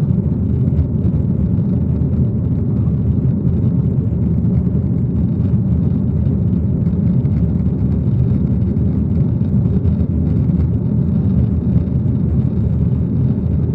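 Steady low rumble of an aeroplane, unchanging throughout.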